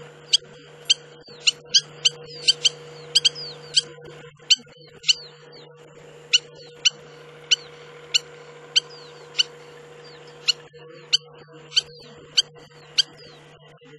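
Spur-winged lapwing giving a long series of short, sharp calls, one or two a second with a couple of brief pauses. A faint steady hum lies underneath.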